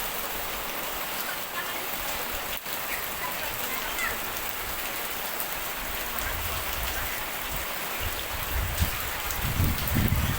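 Steady rain pattering on surfaces, a dense even hiss of drops. A few low rumbles come in during the last seconds.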